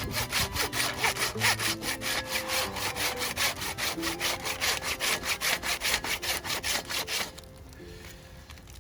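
Hand saw cutting through wood in quick, even back-and-forth strokes, about five or six a second, stopping about seven seconds in.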